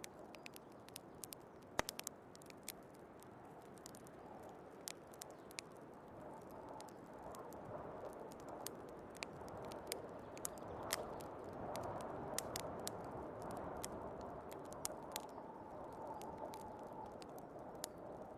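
Wood fire crackling in a fireplace, with frequent sharp pops, over the steady rush of heavy blizzard wind that swells and eases slowly.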